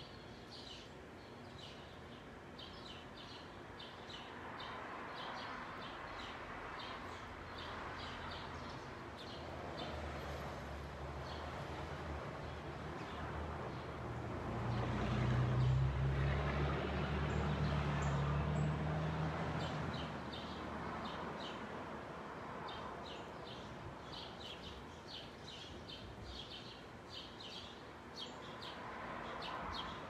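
Small birds at backyard feeders chirping: short, high chirps repeat over and over. About a third of the way in, a low engine rumble swells up, is loudest around the middle, and fades again.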